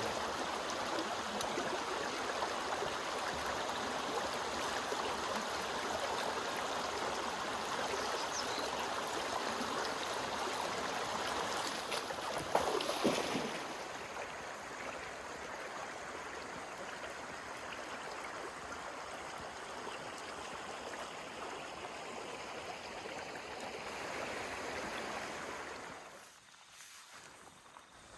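Shallow creek running, a steady rush of water. There is a brief knock about halfway through, after which the water is a little quieter, and the sound drops away near the end.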